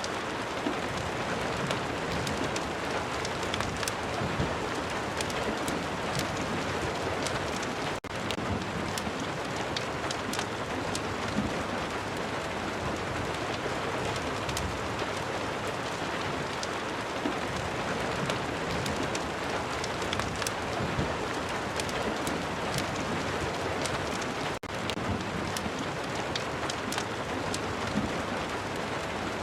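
Steady rain ambience mixed with a crackling fireplace: a dense, even hiss with many scattered sharp crackles and ticks. It dips for an instant twice, about eight seconds in and near the end.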